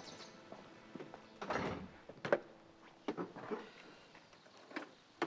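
A door being handled: a short rustle about one and a half seconds in, then a few separate clunks and clicks.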